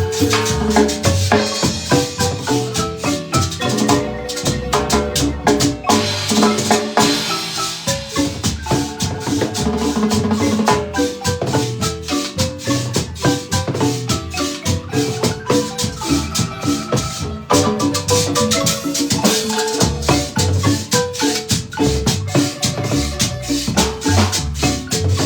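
Guatemalan marimba band playing a lively piece: quick mallet notes on the marimba over bass and a steady beat.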